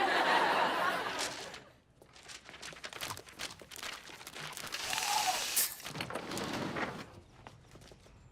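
Sitcom studio audience laughing, dying away within about two seconds, followed by scattered light clicks and another swell of audience noise about halfway through.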